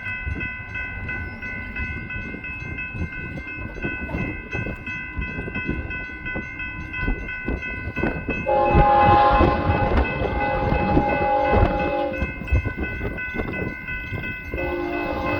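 Freight train rolling past with rumbling wheel clatter, a steady high ringing tone over it for the first half. About halfway through a diesel locomotive's multi-note air horn sounds for a few seconds, then sounds again near the end.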